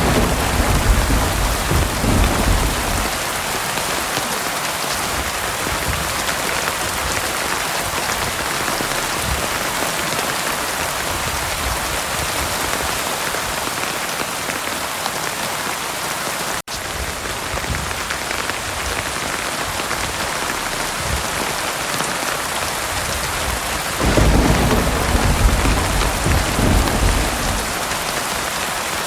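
Heavy rain falling in a steady, even hiss, with low rolling thunder rumbling near the start and again a few seconds before the end. A momentary dropout cuts the sound a little past halfway.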